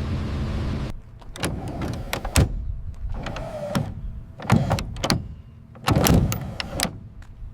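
A run of sharp mechanical clunks and clicks with short electric-motor whirs, one whir sliding down in pitch, like a powered mechanism or hatch being worked.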